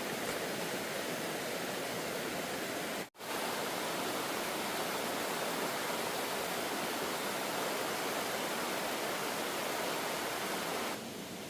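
Steady rushing of water, as from a waterfall. The sound cuts out completely for an instant about three seconds in and steps down in level near the end.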